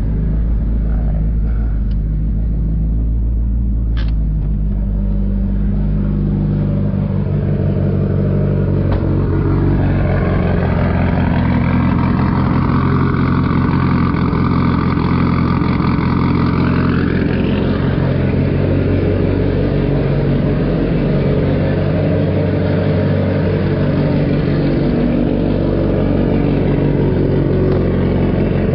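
Mitsubishi Lancer Evolution X's turbocharged four-cylinder engine running shortly after a cold start. The note shifts about six seconds in, and a rising whine climbs through the middle.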